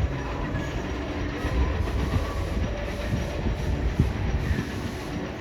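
Train cars rolling along the track, heard from aboard: a steady low rumble with wheel clatter and one sharper clack about four seconds in.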